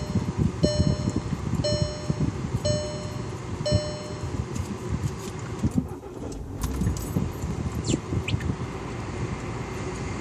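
Car dashboard warning chime dinging about once a second, five times, then stopping, over the low rumble of the Mk6 Jetta TDI's diesel engine running.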